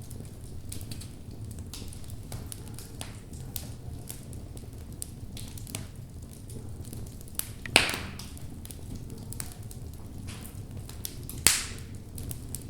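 Wood fire burning in a fireplace: logs crackling with scattered small snaps over a steady low rumble, and two loud pops, one about eight seconds in and one near the end.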